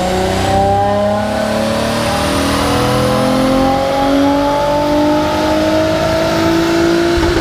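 Honda J30A4 3.0-litre V6 in an Accord coupe making a full-throttle pull on a chassis dyno. The engine note climbs steadily in pitch for about seven seconds as the revs rise, then breaks off at the very end as the throttle is released.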